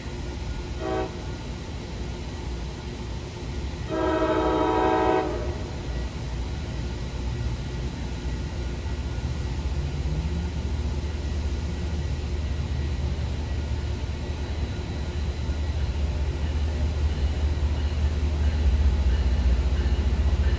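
MBTA commuter rail diesel locomotive approaching: a brief horn toot about a second in, then a longer horn blast around four seconds, followed by the low rumble of the engine and wheels growing steadily louder as the train nears.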